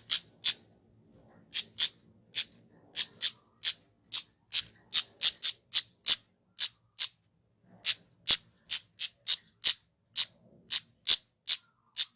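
Kemade, a flowerpecker, giving a long series of sharp, very short high calls, about two a second with uneven spacing.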